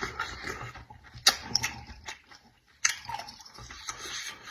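A person chewing and smacking food close to the microphone, with sharp wet mouth clicks and a short pause a little past halfway.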